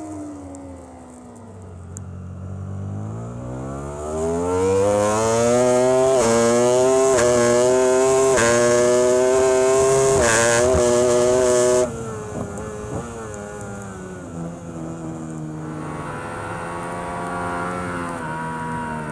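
Racing superbike engine heard from onboard. It winds down under braking, then accelerates hard through a run of quick upshifts and holds high revs. About two-thirds of the way through it drops abruptly as the throttle shuts, then picks up again near the end.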